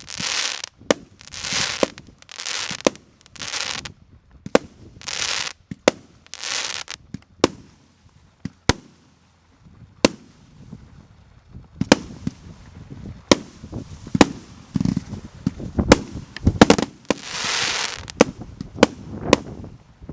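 Goblin JFC2 consumer firework battery firing its shots in sequence. At first there is about one sharp shot a second, each followed by a short hiss. After a brief lull, denser, irregular bangs follow with a lower rumble, and a longer hiss comes near the end.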